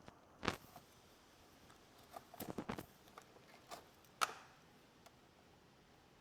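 Tie-down strap hardware being handled: a knock, then a quick run of clicks, then a sharp knock with a short ring.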